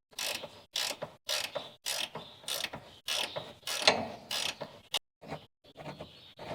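A ratcheting hand tool worked in steady strokes, about two a second, each stroke a short burst of ratchet clicks; the strokes turn fainter and sparser about five seconds in.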